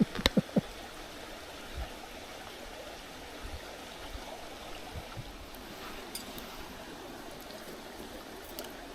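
Mountain stream babbling steadily over rocks. A few short knocks come right at the start.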